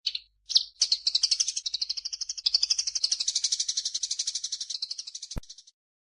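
Songbird chattering in a bird-song recording: two short high calls, then a fast, even, high-pitched rattling trill of about a dozen notes a second. A single sharp click comes just before it cuts off abruptly near the end.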